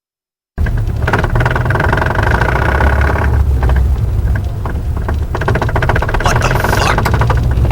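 A vehicle engine running steadily and loudly. It starts abruptly about half a second in and cuts off suddenly at the end.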